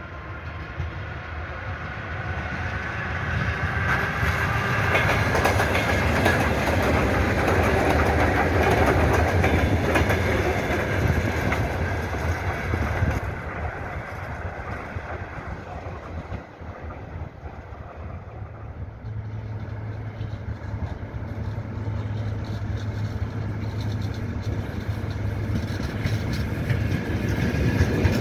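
Electric commuter trains running past on the rails. The first grows louder to a peak of rumbling wheels clattering over the track, then dies away. About halfway through, a second train approaches and grows louder toward the end, with a steady low hum under the wheel noise.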